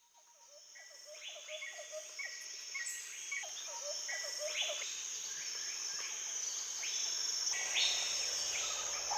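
Rainforest ambience: a steady high insect drone with bird calls repeating over it, fading in from silence and growing louder.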